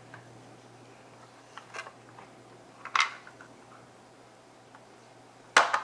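Toy construction trucks being handled and knocked about: a few scattered short clacks, the loudest near the end, over a faint steady hum.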